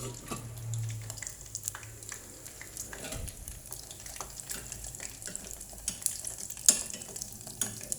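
Battered shrimp deep-frying in oil, sizzling and crackling steadily as the water in the batter cooks off, with a sharp click about two-thirds of the way through.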